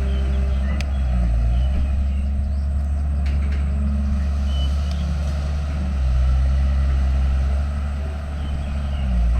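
Diesel engine of heavy earthmoving machinery running under load with a deep, steady rumble. The engine note shifts and gets louder about six seconds in.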